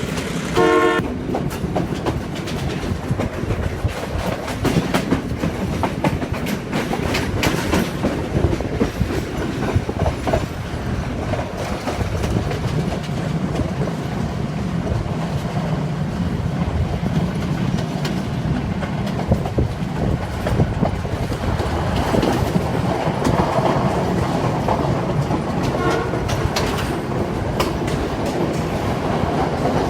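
Train hauled by a Class M2c EMD two-stroke diesel locomotive running along the line, with a steady drone and the clickety-clack of wheels over rail joints. The locomotive's horn gives a short blast about a second in, and a fainter one near the end.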